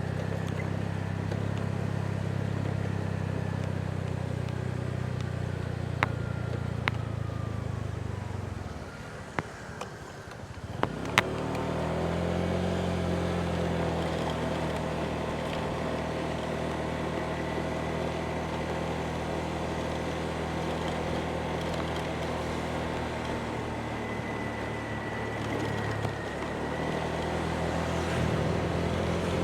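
Motorbike engine running steadily under way, with road noise. Around the ninth second the engine eases off and goes quieter, then pulls away again about two seconds later. A few short knocks come in along the way.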